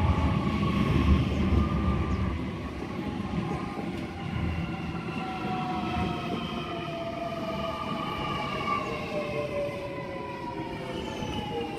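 Sydney Trains Millennium (M-set) electric train braking into the platform. Its traction motor whine falls steadily in pitch as it slows to a stop, over a rumble that is loudest in the first couple of seconds and then eases.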